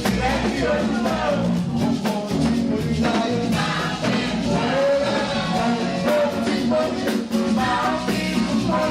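Voices singing a lively praise song over a band with a drum kit, bass and other instruments on a steady beat.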